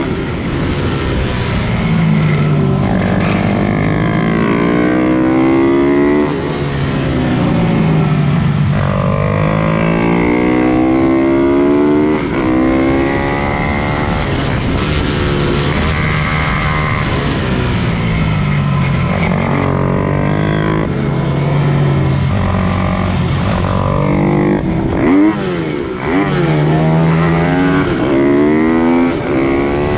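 Several pit bikes' small single-cylinder engines racing at once, their pitch climbing and dropping over and over as the riders accelerate and change gear.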